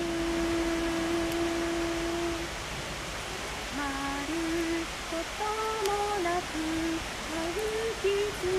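A voice humming a melody without words: one long held note for about two and a half seconds, then a pause, then a run of short stepping notes. Under it a steady hiss, with a few sharp crackles from the campfire.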